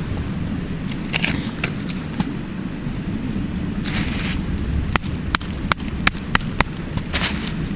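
Wood fire crackling with sharp single pops, most of them bunched after the middle, over the steady low rush of a mountain stream. Three brief scraping rustles come in: one early, one near the middle and one near the end.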